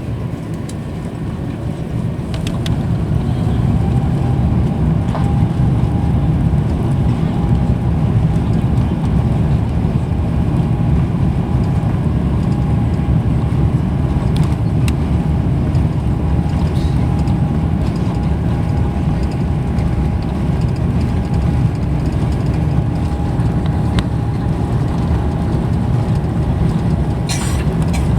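Airbus A350-900's Rolls-Royce Trent XWB engines spooling up for the takeoff roll, heard inside the cabin. A whine rises over the first few seconds and then holds at a steady pitch over a loud, even low rumble.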